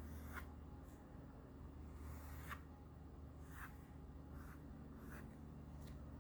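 Faint pencil strokes scratching on paper, about seven short strokes spread through, over a steady low hum.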